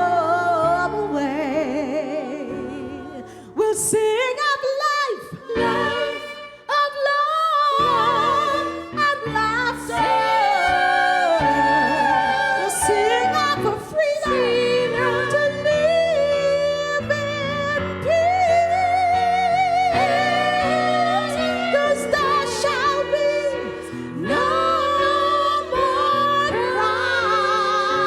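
Female soloist singing a gospel song with long, wavering held notes and runs with a heavy vibrato, no clear words, over keyboard accompaniment.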